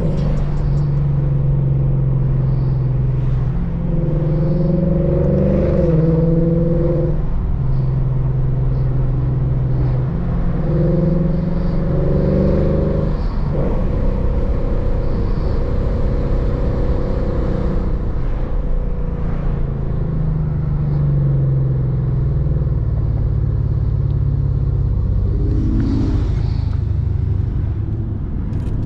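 Lexus RC F's 5.0-litre V8, with full bolt-ons and a tune, running under way with a loud, deep exhaust note. Its pitch shifts up and down several times as the car is driven.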